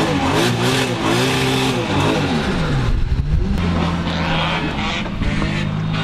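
Toyota Chaser drift car's engine revving up and down in quick pulls, then settling into a steady lower drone from about three seconds in.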